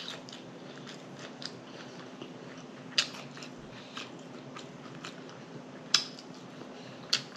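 Close-miked chewing and lip smacking on a mouthful of bun-less cheeseburger: moist mouth clicks and smacks every second or so. A faint steady hum runs underneath.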